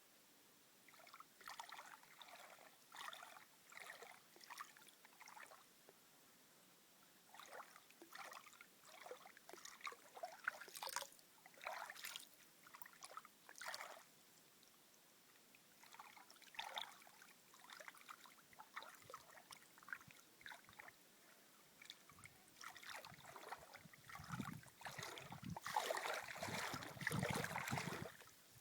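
Water trickling and splashing in irregular spurts with quiet gaps between them, growing louder and fuller near the end.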